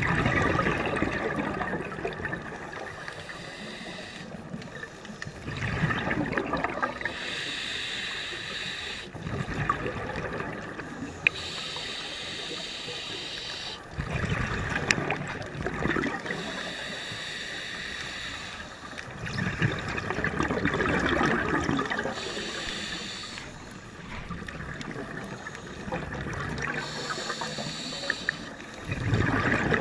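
Scuba diver breathing underwater through a regulator: a hissing inhale alternates with a loud burst of bubbling exhaust bubbles, one breath every five to seven seconds.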